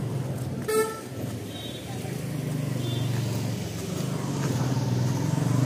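Street traffic: a car engine running close by with a steady low hum, and a short, sharp sound about a second in.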